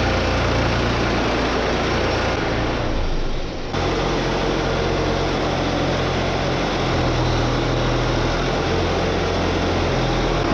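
Vehicle engine running steadily under a dense noise, with an abrupt change in the sound about three and a half seconds in.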